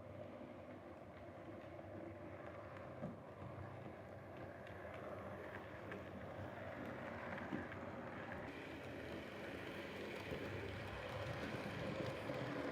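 Model railway locomotive running along the track: a steady motor hum and wheel rumble with occasional sharp clicks, slowly growing louder toward the end.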